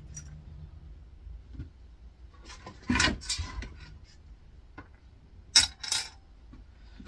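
Small metal scrap parts, steel retaining clips and an aluminium piece from an air fryer, clinking and clattering as they are handled and set down: a short run of clatters about three seconds in, then two sharp clinks near the end.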